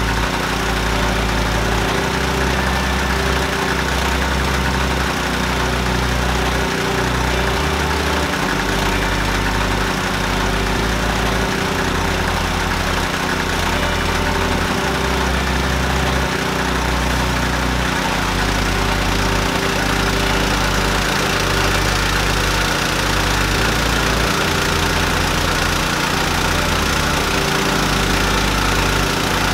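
Mahkota KD-580S rice milling machine running steadily: a constant engine drone with steady tones under a hiss from the mill.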